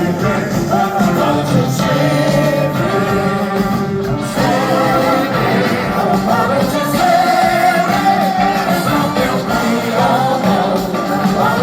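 Live rock band playing, with singing over the band.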